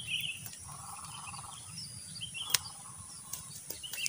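Wild birds chirping in short high calls, with a lower, longer call about a second in and again near three seconds. A single sharp click about two and a half seconds in stands out above them.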